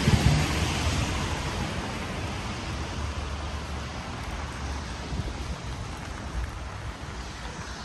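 Rain falling on a street, with the wet hiss of a passing vehicle's tyres fading away over the first few seconds.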